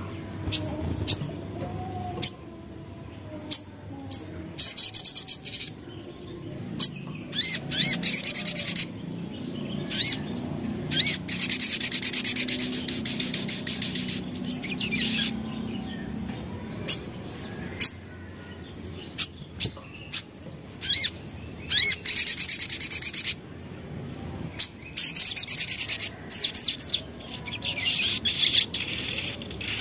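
Sogok ontong (ruby-cheeked sunbird) singing: sharp high chirps mixed with several rapid, high-pitched trilled bursts lasting one to four seconds each, the song of a bird in breeding condition.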